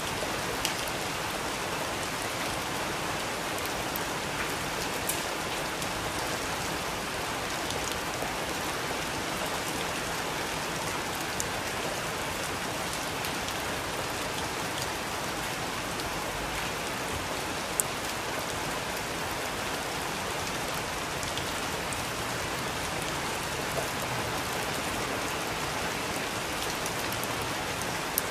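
Steady rain falling, an even hiss with occasional sharp single drips standing out from it.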